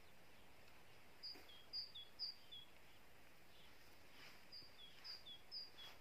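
A small songbird calling in two short series of quick two-note phrases, each a high chirp followed by a slightly lower one, repeated about three times per series, over quiet outdoor stillness.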